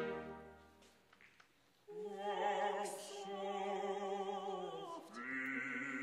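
Opera singing: a held chord dies away in the first second, a short silence follows, then a solo voice sings long notes with vibrato, breaking off briefly about five seconds in before going on.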